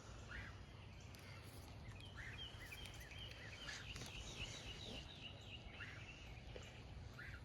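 Faint outdoor background with a steady low rumble, and a bird calling a quick series of short, repeated chirps, about three a second, through the middle.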